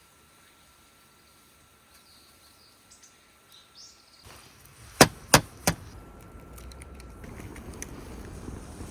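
Faint chirping birds in quiet surroundings. About halfway through come three sharp snaps in quick succession, then a rushing noise that grows, with scattered small crackles.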